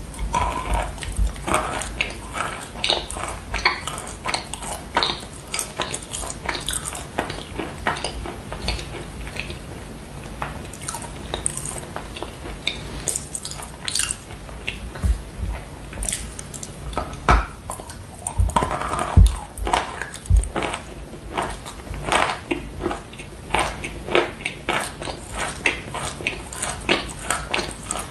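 Edible 'fake chalk' blocks bitten and chewed: loud, crisp, irregular crunches, coming in rapid clusters.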